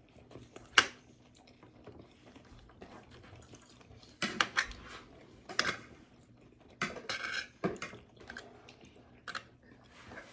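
Cutlery clinking and scraping on a plate, with chewing, in scattered short sounds. The sharpest is a single click about a second in.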